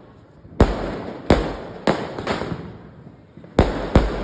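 Firecrackers going off: six sharp bangs at uneven intervals, each echoing away, with two close together near the end.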